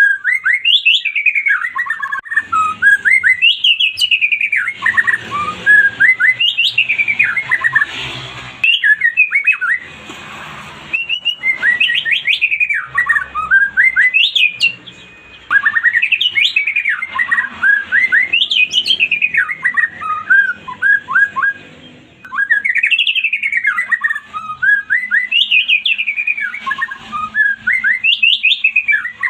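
White-rumped shama (murai batu) singing loudly: fast runs of clear whistled notes that sweep down from high to low, phrase after phrase with brief pauses between.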